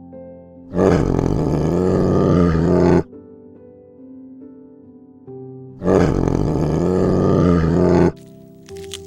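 A large animal roaring twice, each roar lasting about two seconds, with soft background music of sustained notes underneath.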